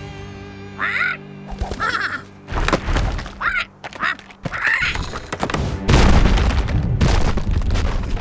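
Cartoon ostrich calls, about five short honking squawks over background music, followed about six seconds in by a loud low rumble.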